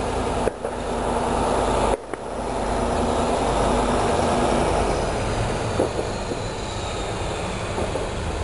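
Freight train pulling out of the station, running with a steady low rumble. About five seconds in, a faint high whine splits into two pitches, one rising and one falling.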